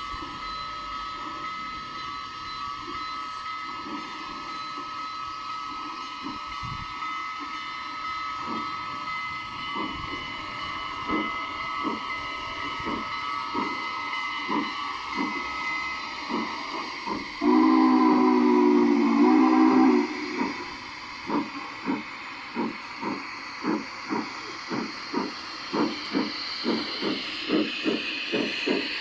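Sound system of a G-scale model steam locomotive: steady steam hiss, then one whistle blast of about two and a half seconds a little after the midpoint, then exhaust chuffs that grow louder and quicker, about two a second, as the engine gets under way.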